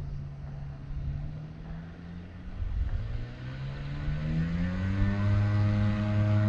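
Propeller engine of an ultralight aircraft running. About halfway through its pitch rises for a couple of seconds as the throttle is opened, then it holds steady and louder.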